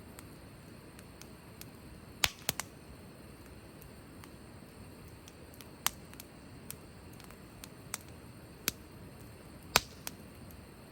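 Wood fire crackling: sharp irregular pops and snaps over a soft steady hiss, with a quick cluster of pops about two seconds in and the loudest pop near the end.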